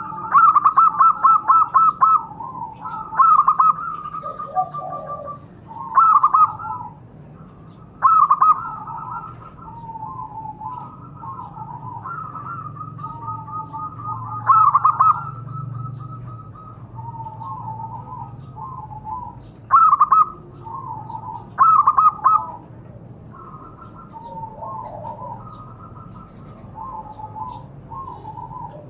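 Zebra doves (perkutut) cooing, several birds calling back and forth. Loud staccato coo phrases come every few seconds, with softer cooing in between.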